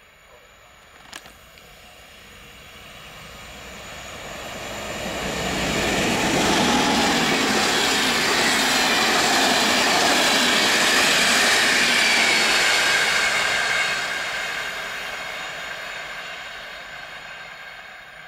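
EU44 'Husarz' electric locomotive hauling a passenger express past at full speed. The sound builds from about four seconds in, holds loud as the coaches rush by with wheel-and-rail noise, then fades away near the end.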